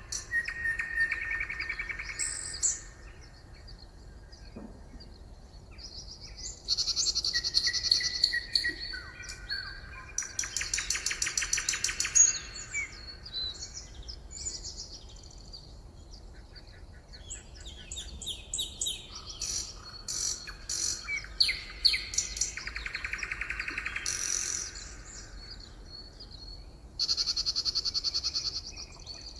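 Several songbirds singing, with fast, high trills and chirps in overlapping bouts of a few seconds each, separated by short gaps.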